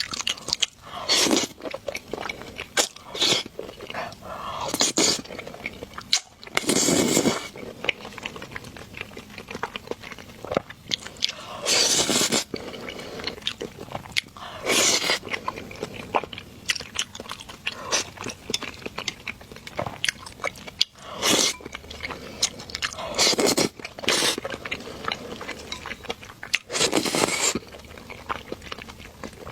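A person eating spicy stir-fried rice noodles close to the microphone: chewing and biting, with a louder burst every few seconds.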